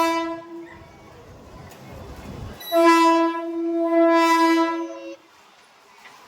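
Train horn sounding twice: a blast that ends just under a second in, then a long steady blast of about two and a half seconds, with a low rumble between them.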